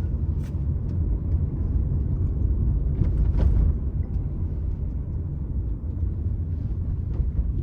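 Steady low rumble inside a car's cabin as it rolls slowly with the driver's foot off the gas, swelling a little about three seconds in.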